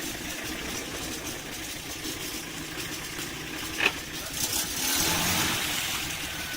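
Off-road vehicle's engine running while the vehicle sits grounded on its front axle. There is a sharp knock about four seconds in, then a louder rushing swell for a second or two.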